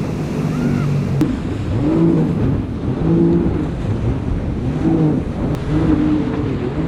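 Jet ski engine running hard, its pitch swelling and falling back about once a second.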